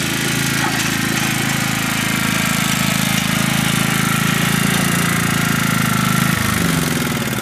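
A 16-horsepower Kohler engine on a Scotts S1642 lawn tractor running steadily under way, its note dropping about six seconds in.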